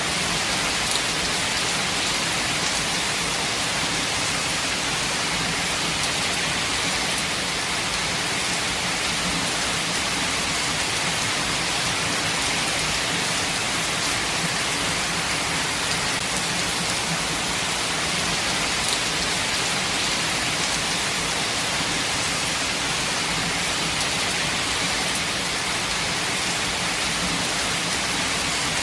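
Steady, heavy rain falling and pattering on surfaces, an even hiss with no let-up.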